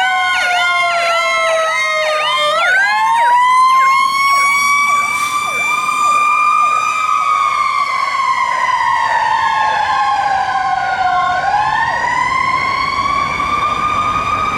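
Fire apparatus sirens sounding while responding. A slow wail rises and falls over several seconds, overlapped by a faster yelp of about three to four chirps a second.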